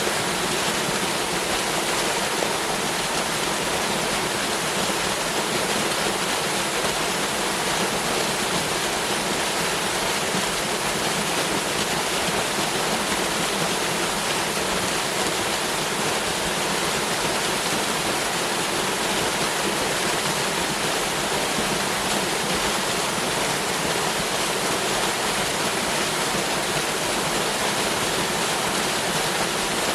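Waterfall: water pouring down and splashing in a steady, even rush.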